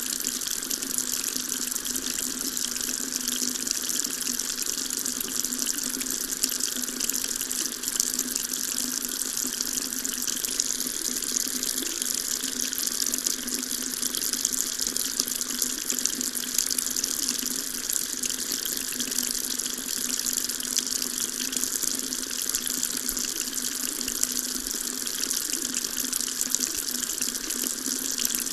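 Water tap running steadily, a constant stream of water splashing with no breaks.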